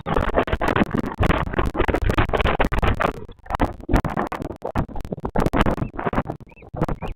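Loud crackling and rustling on the nest camera's microphone, thick with sharp clicks, easing a little about halfway through. Near the end come two faint, short, high calls.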